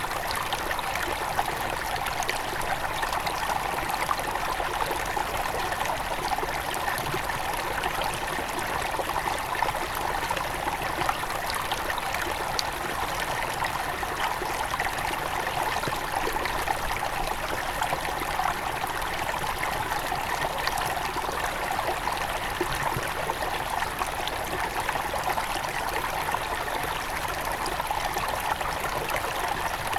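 Headwater stream of a small forest river flowing steadily: a continuous, even rush of running water.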